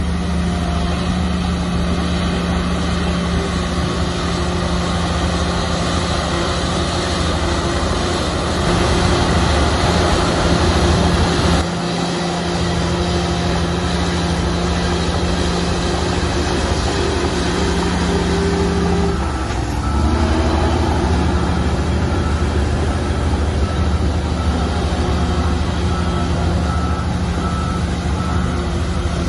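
Heavy diesel earthmoving machinery running steadily under work. Its engine note dips and then picks up again about two-thirds of the way through, and a reversing alarm beeps repeatedly in the last part.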